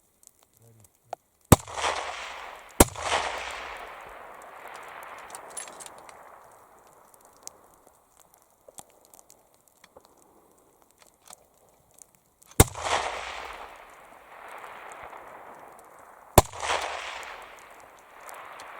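Four rifle shots, two close together early on and two more later, each a sharp crack followed by a long rolling echo. These are most likely from the hunters' .308 Winchester rifle.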